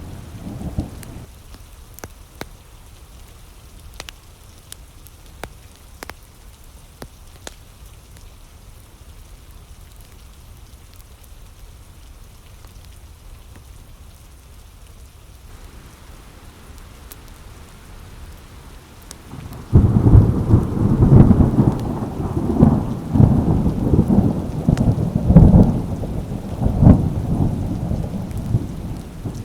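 Steady light rain with scattered sharp clicks, then about twenty seconds in a sudden loud thunderclap that rolls and rumbles on for the last ten seconds.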